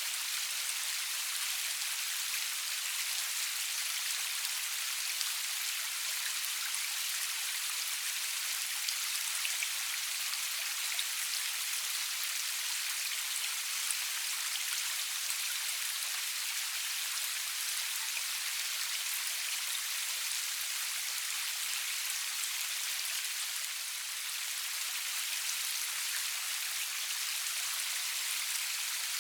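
Steady rain falling: an even hiss of many drops, with a scatter of single drop ticks, and no thunder.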